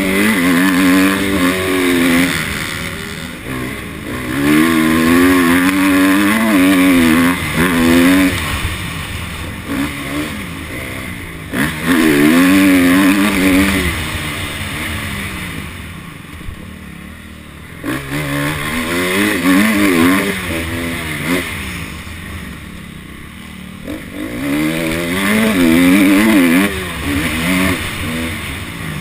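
Honda CRF250 dirt bike's four-stroke single-cylinder engine revving hard under full throttle, pitch climbing and dropping through the gears. Several times the throttle is shut and the engine falls away quieter, then it picks up and revs again.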